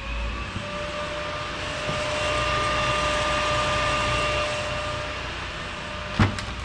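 Car's electric cooling fans switched on, spinning up with a rising whine and then running steadily with an even whir. A sharp click comes about six seconds in.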